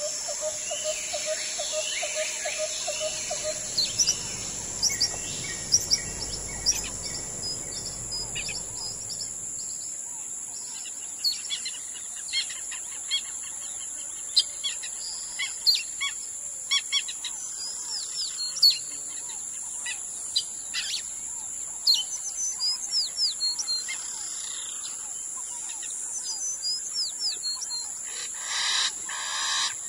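Bushland birds chirping and calling in many short, quick notes over a steady high-pitched drone. A faint low rumble stops about ten seconds in.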